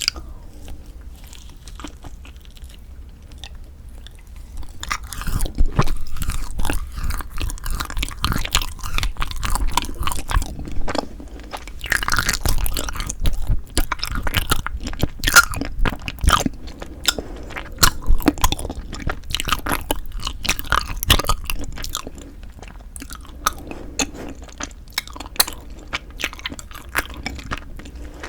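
Close-miked chewing and biting of a frozen cream cheese rice-cake ice treat. Crisp, crunchy chewing grows louder about five seconds in and softens again near the end.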